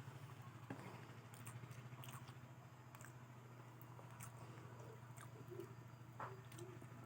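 Faint chewing and mouth sounds of a person eating spicy fried potatoes, with scattered small clicks and smacks over a steady low hum.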